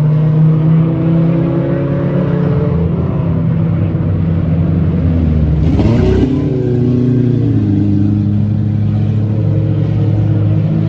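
Several mini stock race cars' engines running hard around the track, their pitches rising and falling against each other. About six seconds in, one car passes close by, louder for a moment, with its pitch dropping as it goes past.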